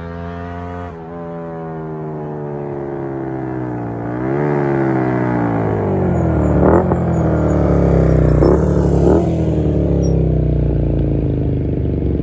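Honda Varadero 125's 125 cc V-twin four-stroke engine through a Black Widow aftermarket exhaust. The revs rise, drop sharply about a second in at a gear change, and climb again for a few seconds. Then the revs fall away slowly, with three quick sharp blips partway through.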